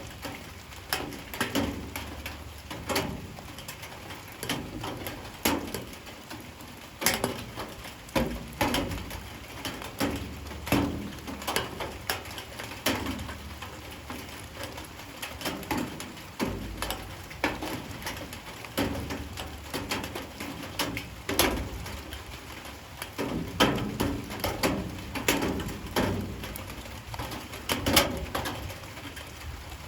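Light rain falling, with irregular drops striking a hard surface several times a second over a soft steady hiss. A dove coos low now and then in the background.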